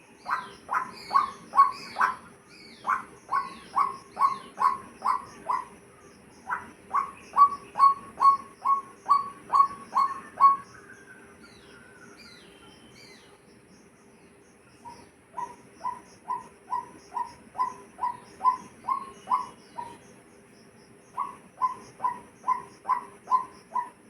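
A bird calling a long series of short, identical notes, about three a second, in runs of several seconds. The runs break off for a few seconds about halfway through and then resume. Other birds chirp faintly at a higher pitch.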